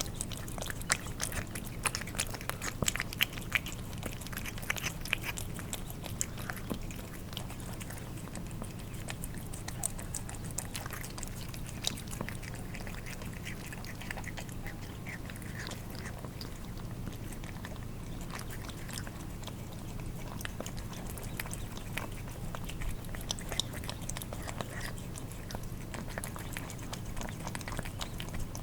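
Cats eating wet food: quick, irregular wet smacking, licking and chewing clicks from their tongues and mouths, over a steady low hum.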